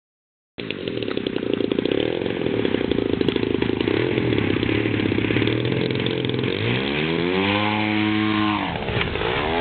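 A DLE-30, a 30cc single-cylinder two-stroke gas engine, running in a large RC aerobatic plane on its first tank of fuel, with a fast buzzy firing rhythm. It cuts in after a moment. About seven seconds in its pitch climbs and holds, then drops sharply and climbs again near the end.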